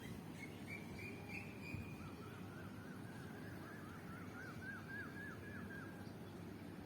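A songbird singing: a brief high trill, then a run of quick repeated down-slurred notes that grow stronger toward the end, over a steady low background rush.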